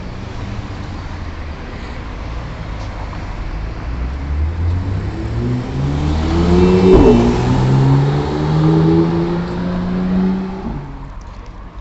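A car engine accelerating hard through the gears as it passes. The engine note rises in steps and is loudest with a single sharp crack about seven seconds in. It keeps climbing, then drops off near the end.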